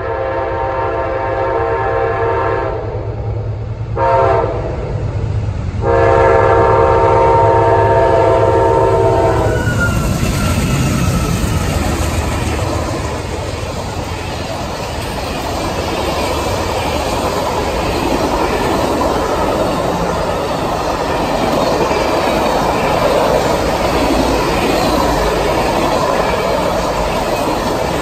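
Passenger train's diesel locomotive horn sounding a long blast, a short one, then another long blast that ends about nine seconds in. The train then rolls past close by, its passenger cars' wheels clattering over the rail joints.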